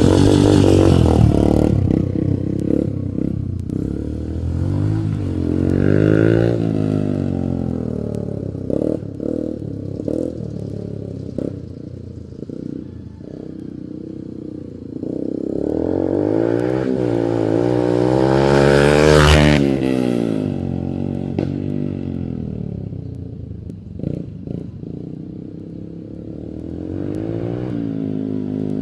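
Dirt bike engine revving up and down as the bike rides past, rising to its loudest pass about two-thirds of the way through and dropping sharply as it goes by.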